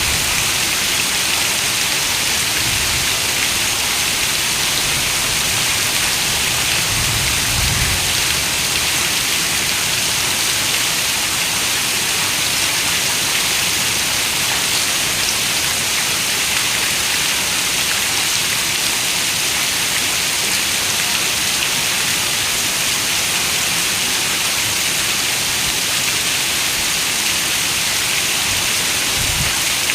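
Heavy rain falling steadily on a window, an even, unbroken hiss.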